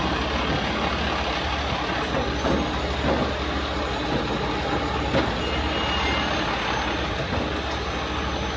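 Heavy rotator tow truck's diesel engine running steadily under load, driving the boom hydraulics through its PTO during a lift.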